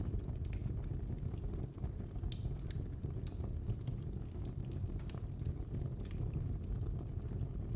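Fire burning in a fireplace, crackling with scattered sharp pops over a steady low rumble of the flames.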